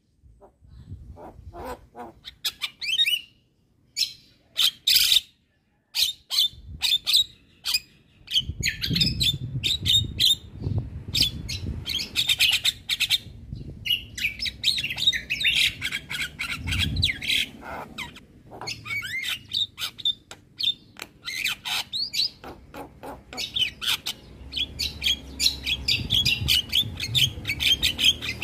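Javan myna in full, vigorous song: a fast run of chattering clicks, chirps, squawks and short whistles, broken by a few brief pauses in the first few seconds and then almost without a break.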